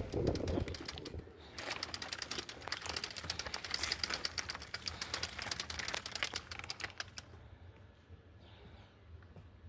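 A rapid, even run of clattering clicks lasting about five and a half seconds, starting about a second and a half in, after a brief low rumble of wind.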